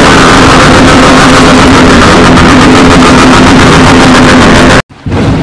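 Motorcycle exhaust revved hard and held at steady high revs, very noisy and distorted by its own loudness. It cuts off suddenly near the end.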